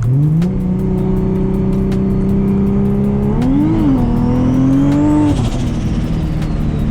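Straight-six car engine accelerating: the pitch climbs at the start and holds steady under load, rises and wavers again about halfway through, then drops back as the throttle eases.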